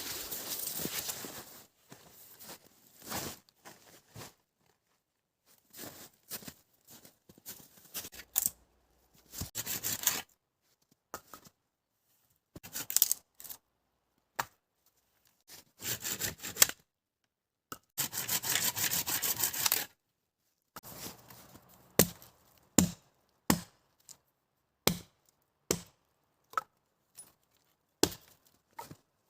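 Wood being broken up for a campfire: bouts of tearing and scraping, then, from about two-thirds of the way in, a series of sharp chopping strikes roughly one a second.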